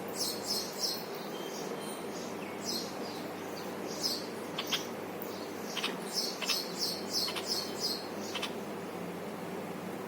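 Small birds chirping in quick clusters of short, high notes, several times over, against a steady low hum.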